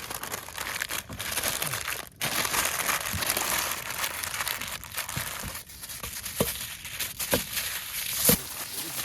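Meatballs and sausage sizzling and crackling on a hot natural stone, a dense steady hiss with scattered sharp pops.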